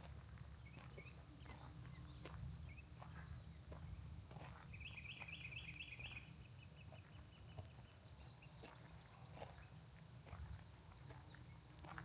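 Faint outdoor ambience: an insect drones on one steady high note throughout, and a bird gives a quick run of about five chirps a little before the middle, with scattered faint chirps and soft footsteps on the path.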